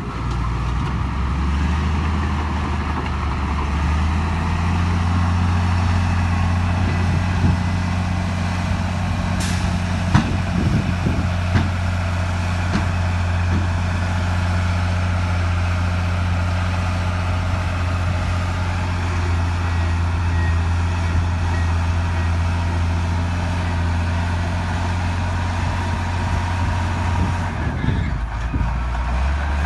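Heavy diesel engine of earthmoving machinery running steadily under load. Its note steps up about four seconds in and falls away briefly near the end, with a few sharp knocks around the middle.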